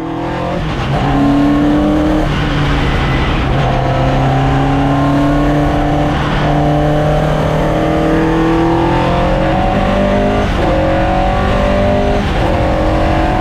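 Race car's Vauxhall C20XE 2.0-litre 16-valve four-cylinder engine driven hard on track. The revs climb steadily, then drop back at each gearchange every two seconds or so.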